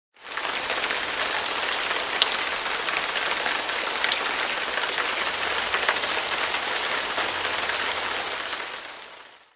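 Rain sound effect: steady rain falling, an even hiss with scattered small drop ticks, fading out near the end.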